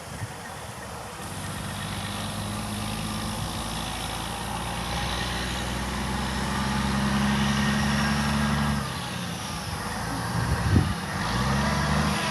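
Truck engine drawing nearer and growing louder, then dropping away sharply about nine seconds in; a low thump and another engine follow near the end.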